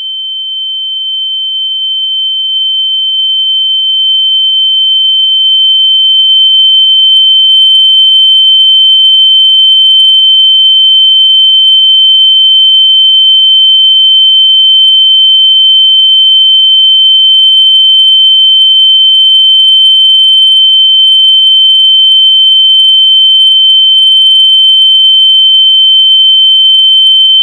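A single steady, high-pitched electronic beep tone, very loud, swelling up over the first few seconds and then holding at full level. It is a locator tone meant to be played through lost AirPods so they can be found by ear.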